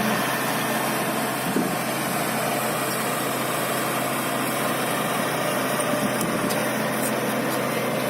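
An engine running steadily at idle, with a constant, even noise.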